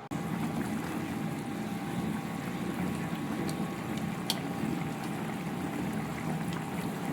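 A pot of chicken kaldereta simmering, its sauce bubbling steadily, with a light click about four seconds in.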